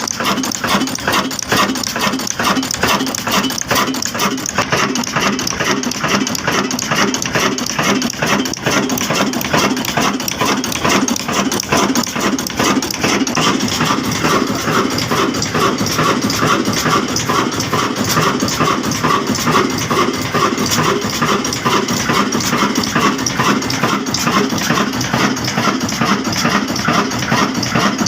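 Old black diesel engine running steadily with an even repeating beat.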